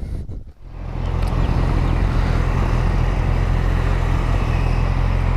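Yamaha R6 600cc inline-four sport bike under way, its engine and rushing air running steadily; the sound builds up about a second in and then holds.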